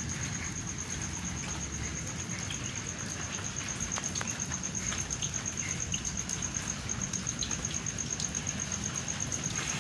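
Rain falling steadily during a thunderstorm, with scattered sharp drop ticks over a low rumbling background, and a thin, rapidly pulsing high tone throughout.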